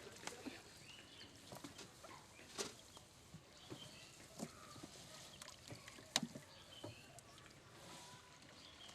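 Faint sounds of a small river fishing boat: scattered knocks and clatter over a quiet background, the sharpest knock about six seconds in.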